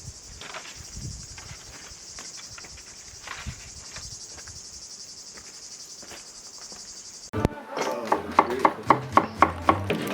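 A steady, high-pitched chorus of insects chirring in the summer grass. Near the end it cuts off abruptly and a quick run of sharp, ringing knocks follows, about four a second.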